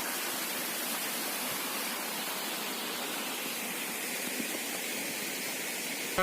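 Steady, even rushing noise with no tones or distinct events; music starts right at the end.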